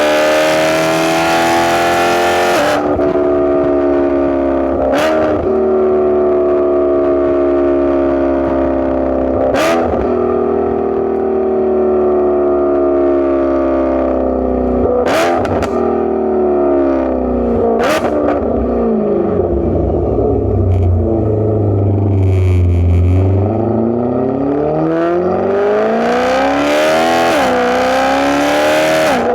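Straight-piped BMW E92 M3's V8 running through catless test pipes, an X-pipe and a valved muffler while driving. The exhaust note slowly falls, bottoms out low around twenty seconds in, then climbs as the car accelerates near the end. Sharp cracks come from the exhaust every few seconds.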